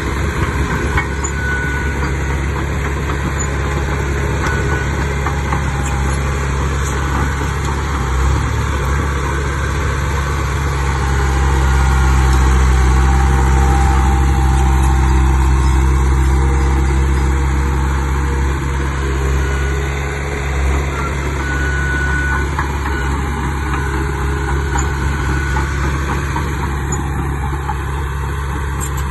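Heavy diesel engine of earthmoving machinery running steadily, growing louder for several seconds in the middle before settling back.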